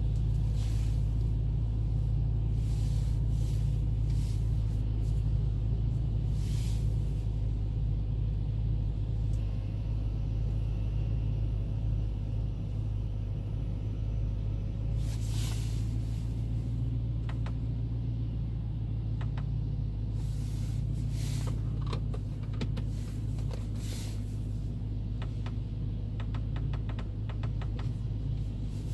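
BMW M3 E93's V8 engine running with a steady low rumble, with scattered light clicks and ticks in the second half.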